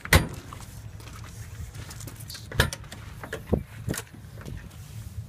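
A steady low hum with four sharp knocks or clicks, the loudest right at the start and three more in the second half.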